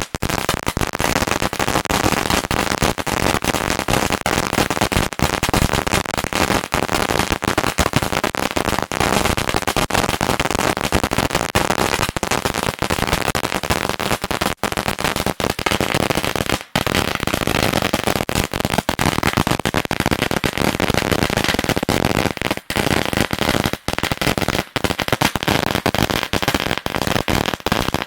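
Fireworks going off: a dense, unbroken run of rapid crackles and bangs that begins suddenly with a few sharp pops, like a long string of firecrackers.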